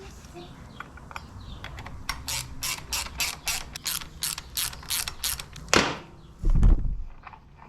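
Hand ratchet wrench clicking as it drives in screws, about three clicks a second, then a louder knock and a low thud near the end.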